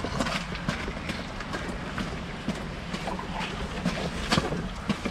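Irregular footsteps and knocks of carried gear on a portage trail, over a steady low rumble.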